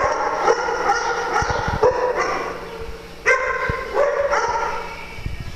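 A dog barking and yipping in repeated short, high calls, about one a second, with a brief lull about three seconds in.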